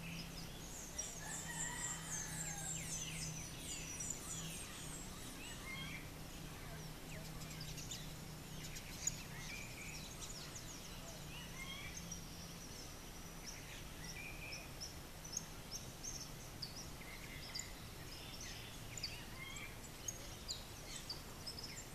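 Birds calling: a fast, high trill in the first few seconds, then scattered chirps and short whistled notes, with a few sharp clicks near the end. A low steady hum runs under the first half.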